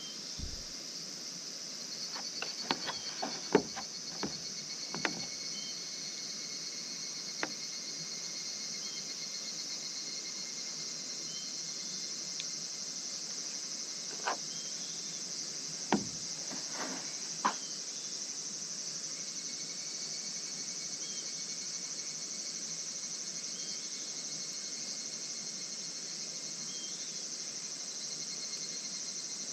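A steady outdoor insect chorus with a high, fine trill. Scattered sharp clicks and knocks sound over it: a quick cluster a few seconds in, then single ones near the middle.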